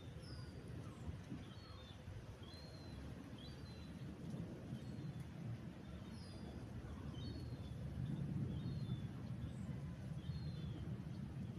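Small birds chirping, short high notes scattered through, over a steady low rumble of outdoor background noise.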